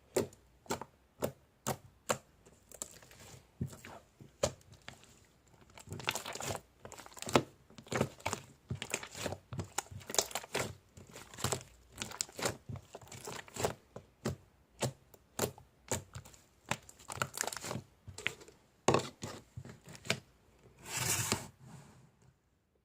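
A long run of sharp, crisp crunches and crackles, about one to two a second, like something brittle being broken or torn by hand. There are denser crumbling rushes about six seconds in and again near the end.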